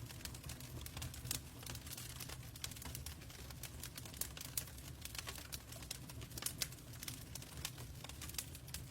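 Log fire crackling in a fireplace: irregular sharp pops and snaps over a steady low rumble of the burning.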